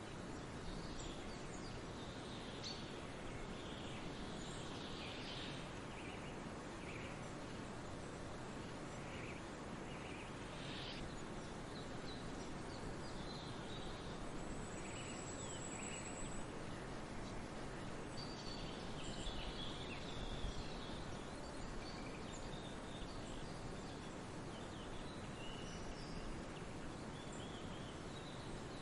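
Wild songbirds chirping and calling in many short phrases over a steady rushing background of wind in the trees and distant falling water. A thin, high whistle lasts about two seconds midway.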